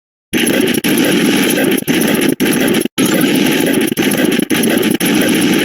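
A loud, harsh, buzzing electronic sound effect that starts abruptly about a third of a second in and runs on, cutting out for an instant several times, every half second or so.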